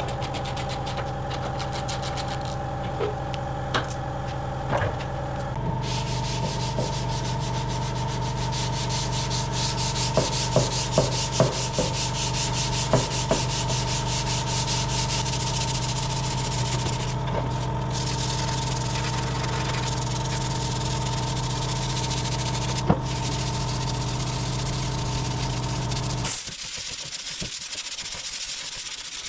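Electric power sander running against the car's steel front wing: a steady motor hum with a rasping hiss, the motor's pitch stepping up about six seconds in, a few light knocks partway through, and the sander stopping near the end.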